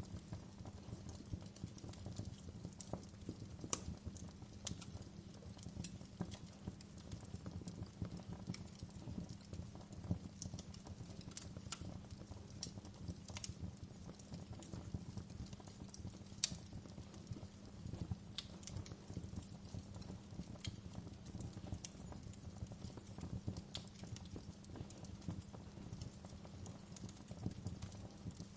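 Fire crackling: irregular sharp pops and snaps, one louder pop about halfway through, over a steady low rumble.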